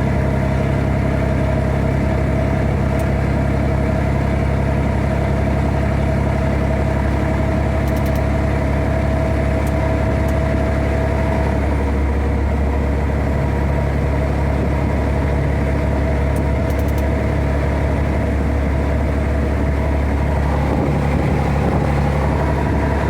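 Scania 113H truck's 11-litre straight-six diesel engine running at a steady speed, with a slight shift in its tone about halfway through.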